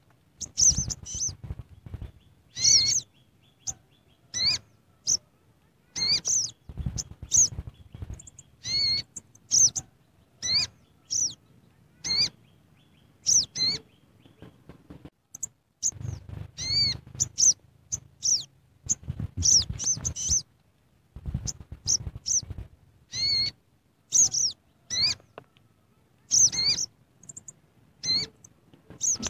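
A bird chirping in short, high, repeated calls that come in quick bunches with brief gaps between them, with low dull bumps underneath some of the calls.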